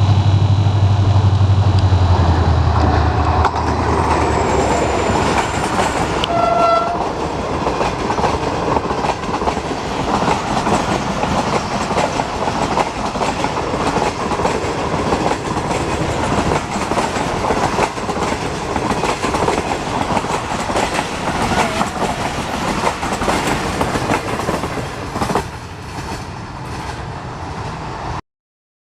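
Pakistan Railways HGMU-30 diesel locomotive passing with its train. Its heavy engine drone fades over the first few seconds, and a short horn blast sounds about six seconds in. Then comes the steady rush and clatter of the coaches' wheels over the rail joints, cutting off abruptly near the end.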